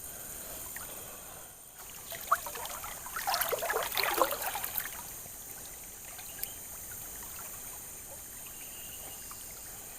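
River water trickling and lapping around a bamboo raft, with a bout of splashing about two to five seconds in.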